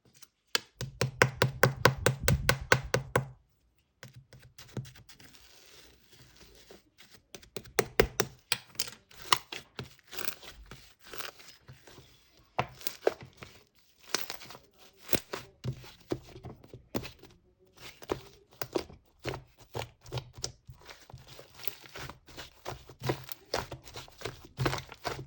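Fluffy white slime being squeezed and poked by hand, giving sharp sticky clicks and pops. A fast, loud run of clicks lasts about three seconds, then after a brief pause come softer, irregular clicks and squishes.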